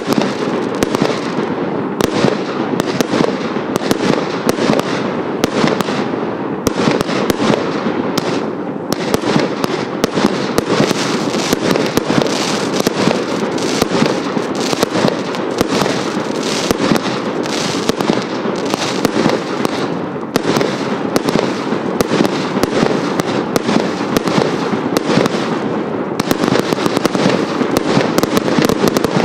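Hallmark 'Insidious' firework firing continuously: a dense, unbroken stream of bangs, pops and crackling from the shots and their bursting, crackling stars.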